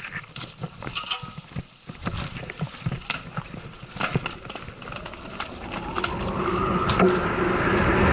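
Mountain bike ridden down a rough enduro trail: an irregular clatter of clicks and knocks from the bike rattling over the ground. From about six seconds in, a steadier rumble grows louder as the bike picks up speed.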